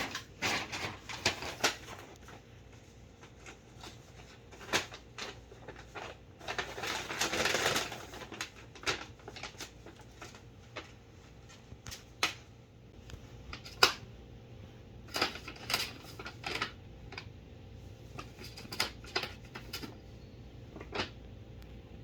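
A cat playing: scattered light taps and clicks, with a rustle lasting about a second around seven seconds in, over a faint low steady hum.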